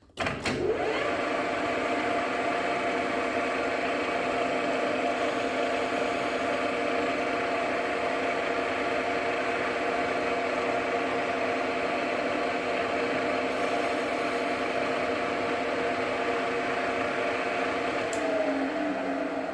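JFMT metal lathe spinning up just after the start and running steadily with an even gear whine. Near the end its pitch falls as it begins to spin down.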